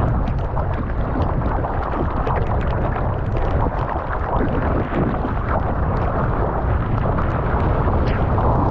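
Strong wind buffeting a GoPro Hero 9's microphone, a steady rumble with scattered small ticks, with the sea splashing under it.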